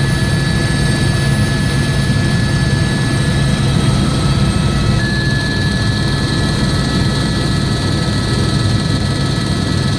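Police helicopter running: a steady engine and rotor drone with a thin, high turbine whine that shifts slightly in pitch about halfway through.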